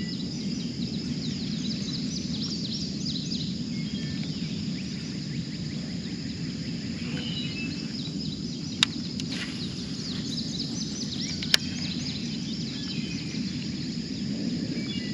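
Outdoor ambience of insects and birds: a steady high insect drone with many small bird chirps over a low, even rumble, broken by two sharp clicks, about nine and eleven and a half seconds in.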